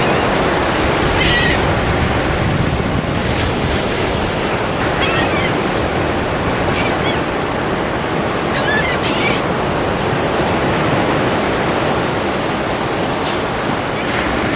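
Ocean surf rushing steadily, with a few short, high warbling calls heard over it from time to time.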